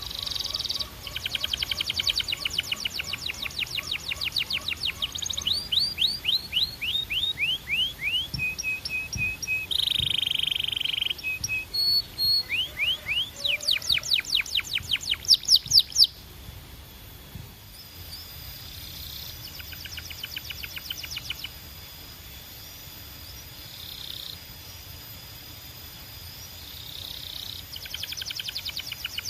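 Canary singing: fast trills of rapidly repeated notes and runs of sweeping notes, loud for the first half. The song then drops to quiet, sparse phrases, and dense trilling starts again near the end.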